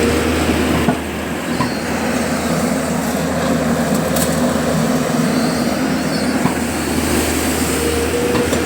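JCB backhoe loader's diesel engine running steadily while loading mud, its note shifting about a second in and settling back near the end.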